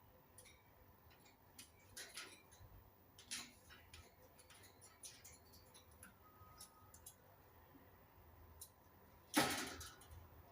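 Quiet sounds of an Indian ringneck parrot moving about: scattered soft clicks and scratches, a brief faint whistle-like note about six seconds in, and one loud, short, harsh burst near the end.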